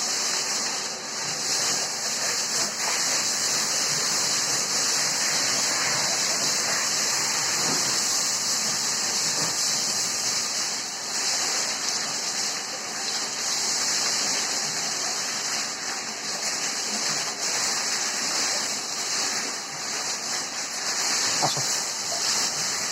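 Steady rushing spray of water as cattle are being bathed.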